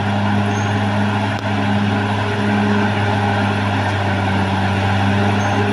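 Caterpillar D6R XL bulldozer's diesel engine running steadily at working revs with an even drone.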